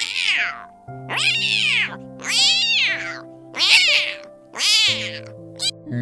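Domestic cat meowing repeatedly, about six meows roughly a second apart, each rising then falling in pitch, the last one short. Soft background music with held chords plays underneath.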